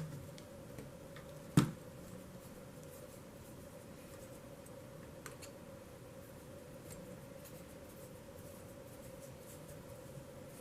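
Small screw and metal parts of a model train's coupler being worked loose by hand on a workbench, with two sharp clicks, the louder one about a second and a half in, and a few faint ticks, over a steady faint hum.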